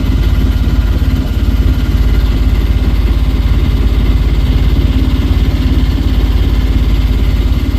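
Boat engine running steadily, a fast even low chugging.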